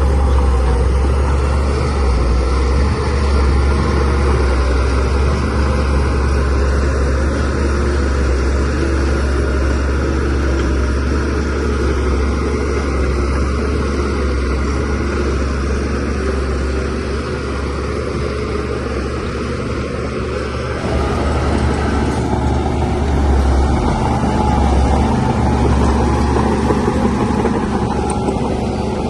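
DH17C3 Pro crawler bulldozer's diesel engine running steadily with a heavy low rumble, getting louder about two-thirds of the way through.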